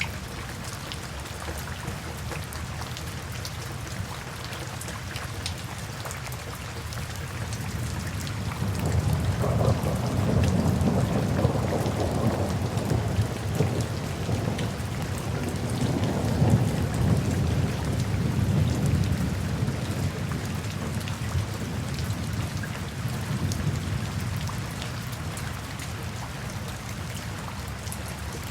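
Steady rain with a long, low roll of thunder that swells about a third of the way in and slowly fades out.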